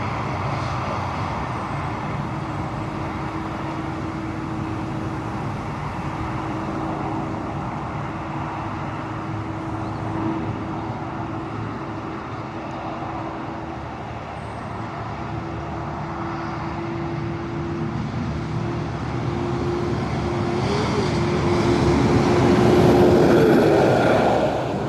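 Road traffic on a highway bridge: a steady tyre-and-engine drone with a held low hum, building as a heavy truck comes past, loudest a little before the end.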